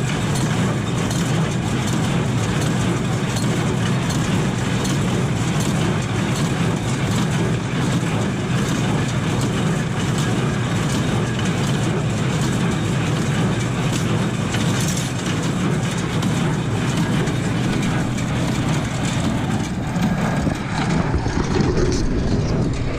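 Tractor running steadily while pulling a New Holland BC5060 small square baler at work, the baler's mechanism clattering with many repeated clicks and rattles. It runs on evenly with no loud bang, a sign that the baler is working after a suspected breakdown.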